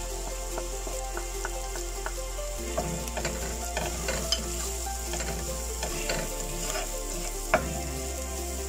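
Onions and dry ground spices frying and sizzling in oil in a stone-coated pot, stirred with a spatula that scrapes and taps against the pot. This is the masala roasting stage. The taps come many times, with one sharper knock near the end.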